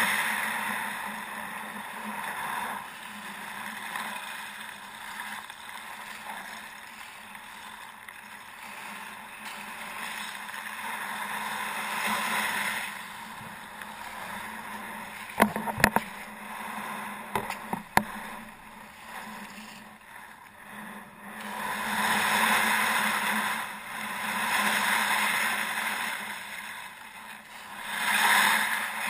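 Kayak paddling among lake ice: a rushing noise of water and wind that swells and fades, with a cluster of sharp knocks about halfway through.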